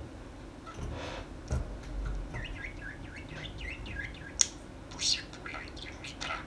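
Small pet parrot chattering in short, scratchy chirps and calls, with a sharp click about four and a half seconds in.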